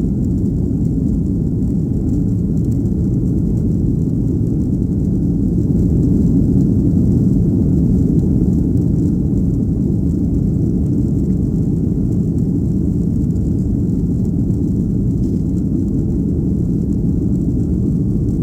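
Cabin noise of a Boeing 737-800 with CFM56-7B turbofans: a steady, loud low rumble of engines and airflow, swelling slightly about a third of the way through.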